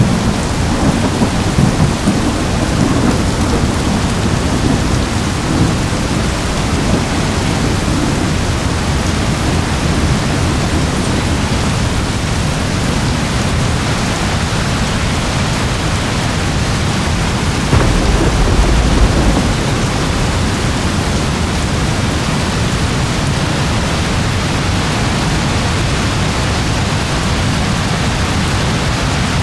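Steady rain with low rolling thunder, the rumble strongest in the first few seconds and swelling again briefly about two-thirds of the way through.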